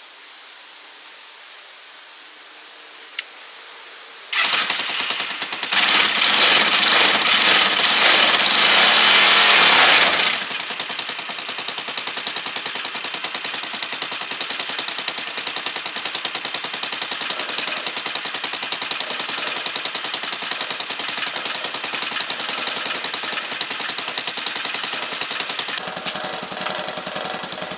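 Motor tricycle's engine starting about four seconds in, revved hard for several seconds, then dropping back to a steady, fast-firing idle.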